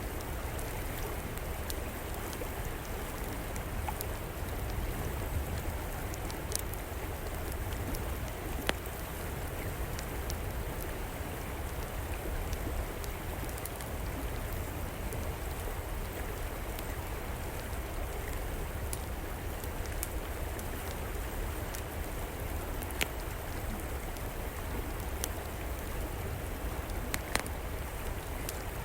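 Steady rush of a flowing river under the crackle of a wood fire, with a few sharp pops scattered through.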